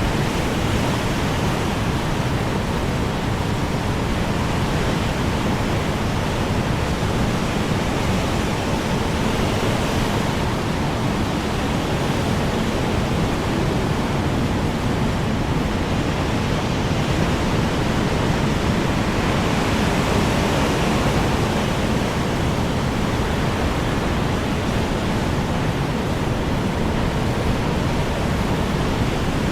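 Strong wind blowing steadily, a dense, even rushing noise that is heaviest in the low end, with only slight swells in strength.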